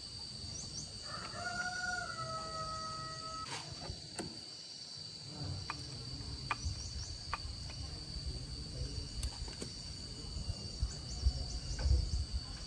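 Insects chirring steadily in an even, high drone, with a short held pitched call about a second in and a few scattered sharp taps.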